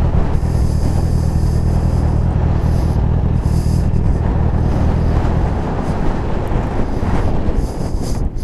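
Sport motorcycle engine running at a steady road speed with wind rush over a helmet microphone, the engine note easing off in the last couple of seconds as the bike slows.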